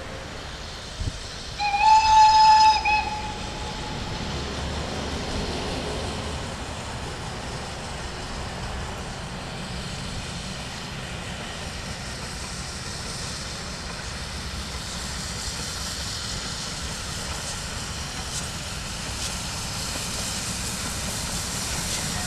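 Steam whistle of CFR 231.065, a Pacific-type steam locomotive, sounding one blast of about a second and a half about two seconds in. After it comes a steady hiss and rumble of the train that slowly grows louder.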